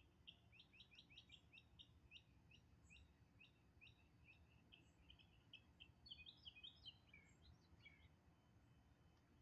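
Faint bird chirping: a long run of short, sharp notes, several a second, growing busier and more varied about six seconds in, over a faint low rumble.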